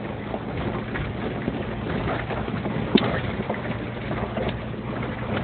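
Rental Jeep's engine running steadily under load while the Jeep is stuck partway up a dirt hill, short of torque. A single sharp knock about three seconds in.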